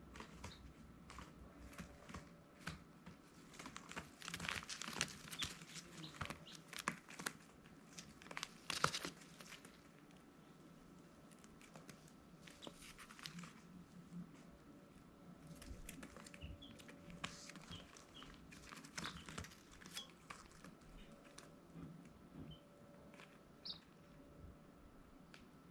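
Crackling, rustling scratches in clusters, with a few faint short peeps from baby chicks.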